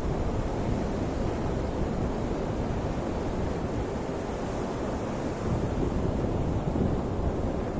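Ocean surf: a continuous wash of breaking waves, swelling a little louder about five and a half seconds in.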